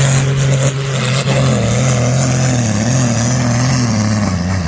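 Pulling tractor's engine running hard at high revs under load, its steady note wavering slightly, then dropping away sharply at the end.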